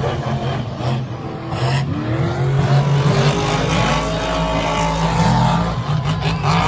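Monster truck engines revving hard during a race, the engine note rising and falling as the drivers work the throttle.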